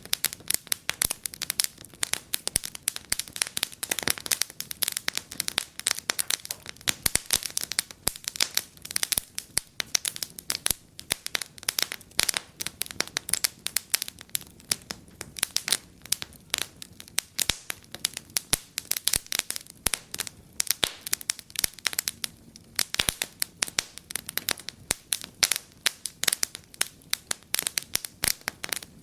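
Wood fire crackling in a fireplace, with a constant irregular patter of sharp pops and snaps, several a second, some louder than others.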